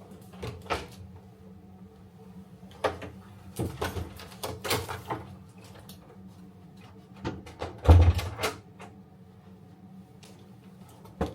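A run of scattered knocks and clunks over a low steady hum, like a door or cupboard being handled, with the loudest a heavy thud about eight seconds in.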